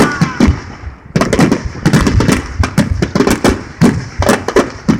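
Fireworks display going off in rapid succession: many sharp bangs a second, with a short lull about a second in before they resume.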